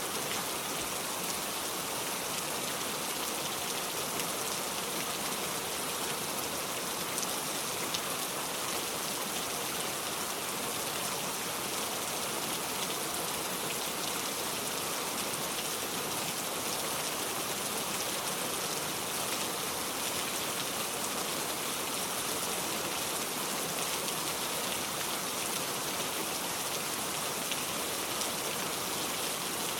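Steady rain: an even hiss dense with the patter of individual drops, holding level throughout.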